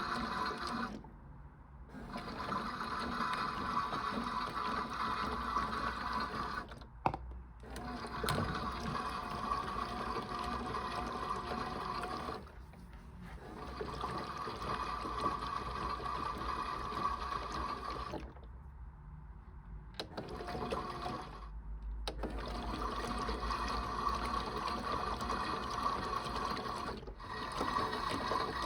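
Toy washing machine running its wash cycle: a small electric motor hums under running, splashing water, stopping briefly several times.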